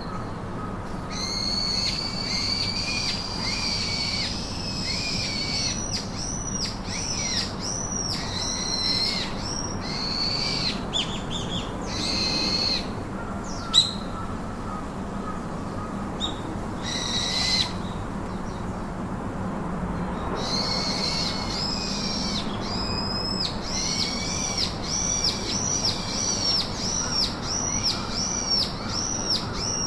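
A bird calling in runs of quick, high whistled notes repeated over and over, broken by short pauses, over a steady background hiss. One sharp tap about halfway through.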